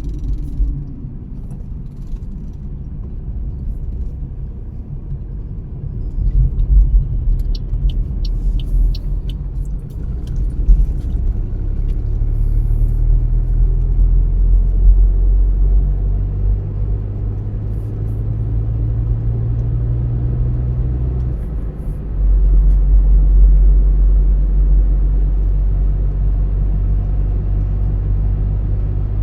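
A car driving along the road: a steady low rumble of engine and tyre noise, with a low engine hum that shifts in pitch a few times. There is a brief run of light ticks about a quarter of the way in, and the rumble gets louder near the three-quarter mark.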